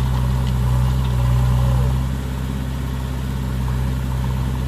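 JCB 3DX backhoe loader's diesel engine running steadily, easing off slightly about two seconds in.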